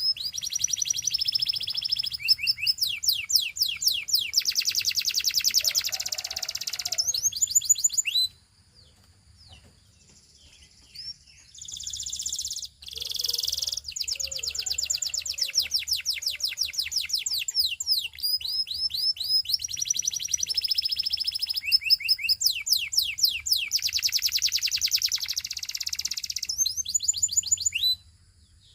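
Canary singing long, high-pitched phrases of fast repeated trilled notes. It breaks off about eight seconds in for roughly three seconds, then sings again and stops just before the end.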